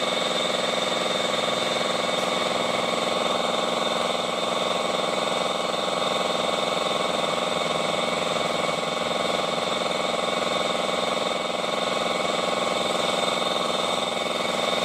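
Honda i-DSI car running with a steady grinding whine from inside its automatic transmission, a sound of internal transmission wear; it holds even and unchanging, then cuts off abruptly at the end.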